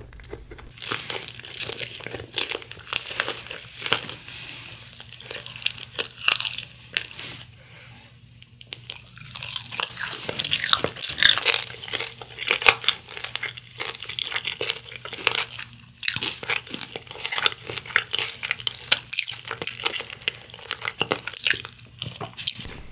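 Close-miked crunching and chewing of honey-glazed fried chicken (Kyochon Honey Combo), the crisp coating crackling with each bite, in quick, irregular crunches with a short lull about eight seconds in.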